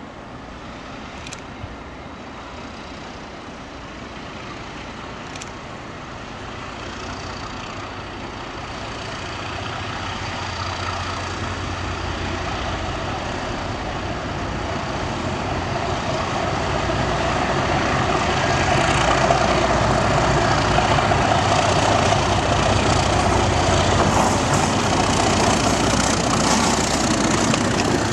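British Rail Class 37 diesel locomotive's engine running under power as it approaches, growing steadily louder with a deep steady hum underneath.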